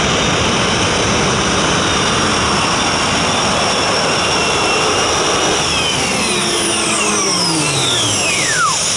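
Modified pulling tractor running at full power with a loud engine and jet-like whine. From about halfway through, several whistling tones drop steeply in pitch as the engine and turbos wind down.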